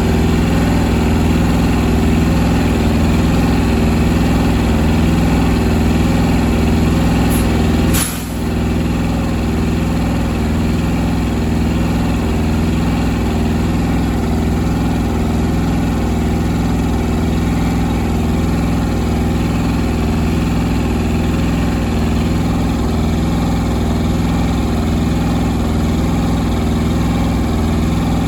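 Truck auxiliary power unit's engine running steadily at idle. A sharp click about eight seconds in is followed by a brief dip in level.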